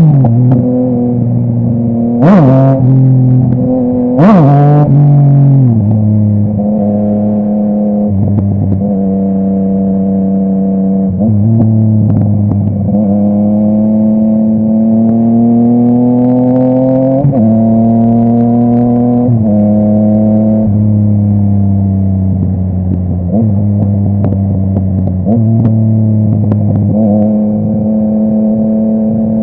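Yamaha MT-09's three-cylinder crossplane engine through a full Akrapovic exhaust, ridden on the road. Two quick, sharp bursts of revs in the first five seconds, then steady running with the pitch stepping down at gear changes and slowly rising and falling with the throttle.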